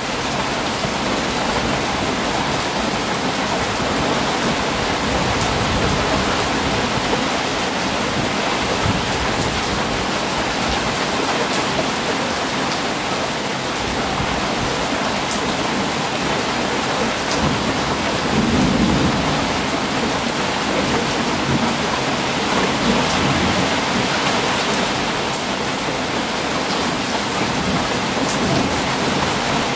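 Heavy rain pouring steadily. About two-thirds of the way through there is a brief low rumble, which is plausibly thunder.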